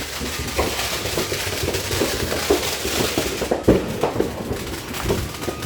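Fireworks popping and crackling: many small pops over a steady hiss, with one sharper, louder pop near the middle.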